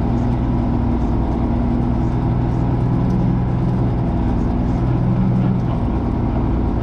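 Tanker truck's diesel engine running under way, heard from inside the cab, its pitch shifting a little as it works through soft ground.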